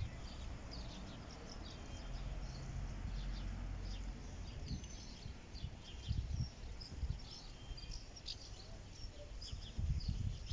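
Small birds chirping, many short high calls scattered throughout, over an uneven low rumble that swells now and then, like wind on the microphone.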